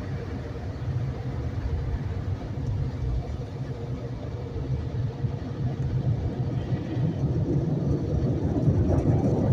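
Car wash tunnel machinery running with a steady low rumble, growing a little louder toward the end.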